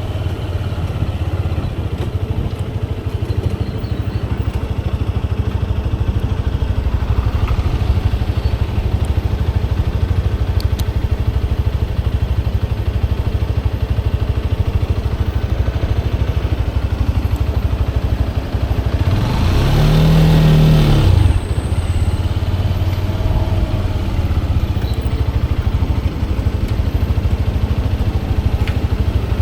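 Motorcycle running at a steady road speed, engine rumble mixed with wind and road noise. About twenty seconds in, a louder engine sound rises and falls in pitch over about two seconds.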